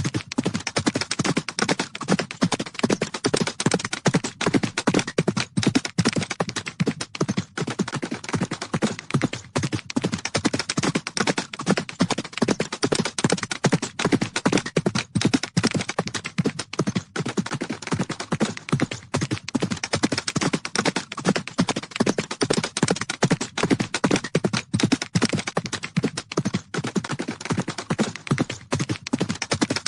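Horses galloping: a fast, continuous run of hoofbeats striking the ground.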